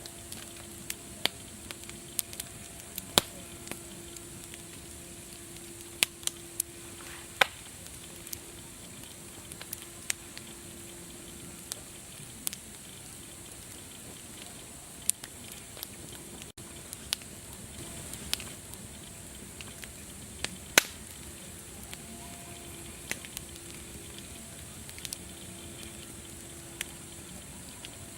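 Wood fire crackling, with irregular sharp pops of varying loudness over a steady hiss. A faint low hum comes and goes in the background.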